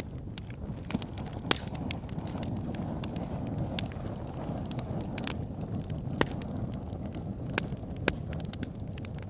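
Wood fire burning in a fireplace: a steady low rumble of flames with scattered sharp crackles and pops from the burning logs, a few louder snaps standing out.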